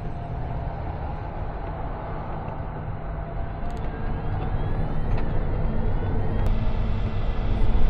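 Car driving on city streets: a steady low rumble of engine and tyre noise, which grows gradually louder over the second half.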